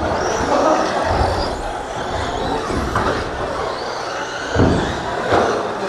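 Radio-controlled stadium trucks racing on the track, their motors whining high and sliding up and down in pitch as they speed up and slow for corners, with a couple of sharp knocks near the end.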